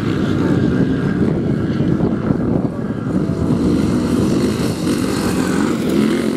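Motocross dirt bike engines running on the race track, a continuous engine drone with no break.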